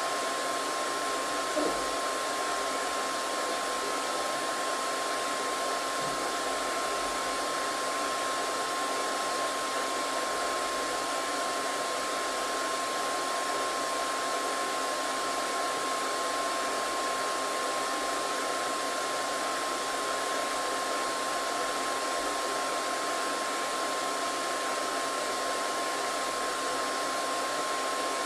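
Electric hair dryer running steadily, a constant rush of air with a steady motor whine over it. There is one brief tick about a second and a half in.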